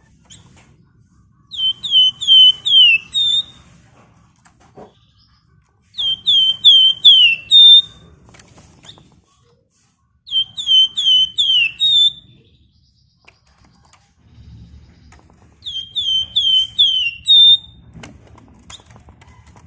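Flamboyan (wergan Jawa, the Javan fulvetta) singing the same short phrase four times. Each phrase is a quick run of five or six downslurred whistles at about the same pitch, ending in a brief flatter note. A faint low hum lies underneath.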